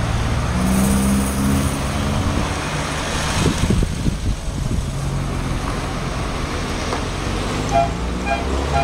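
Car engines running as vehicles move about, with a car horn tooting in quick short beeps near the end.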